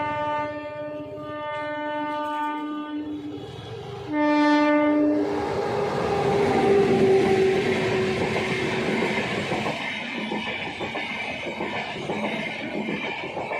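WAP-7 electric locomotive's air horn sounding in three blasts, the last and loudest about four seconds in. The express then rushes through at speed, its wheels clattering over the rail joints.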